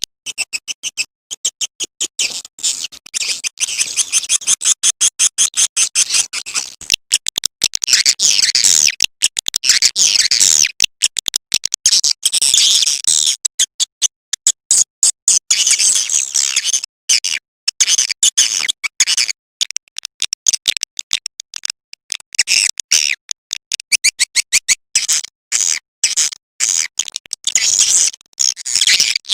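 Swiftlet lure call: a recording of high-pitched swiftlet twittering, played as a 'suara panggil' to draw swiftlets into a nesting house. It comes in quick stuttering chirps packed into bursts, with brief gaps between them.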